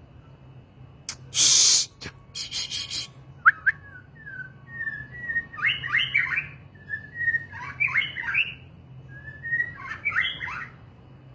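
Songbird calling and singing: one loud harsh rasping note, a short rattle of harsh notes, then three phrases of slurred whistled notes.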